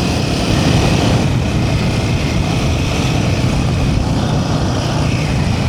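Royal Enfield Himalayan 450's single-cylinder engine running steadily while the motorcycle is ridden, with a steady rushing noise over the low engine rumble.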